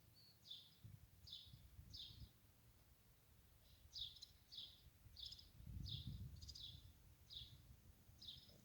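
A songbird chirping: short, high chirps repeated about once or twice a second, in two runs with a pause of about a second and a half between them. A faint low rumble comes through about six seconds in.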